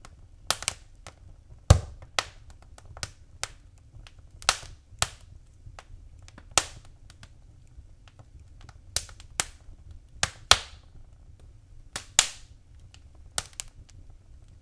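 Wood fire crackling: irregular sharp pops and snaps, one or two a second, over a faint low rumble.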